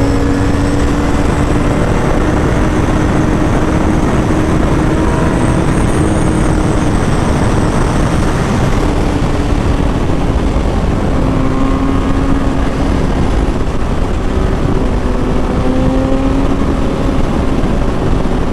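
Kawasaki Ninja ZX-6R's inline-four engine running at a steady cruising speed, its pitch drifting gently up and down, under heavy wind rush on the microphone.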